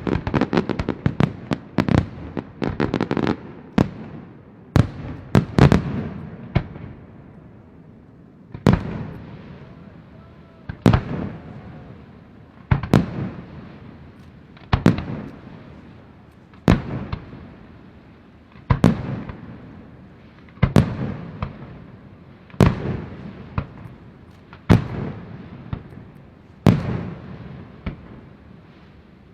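Aerial fireworks display: a rapid flurry of shell bursts, then single loud bangs about every two seconds, each trailing off.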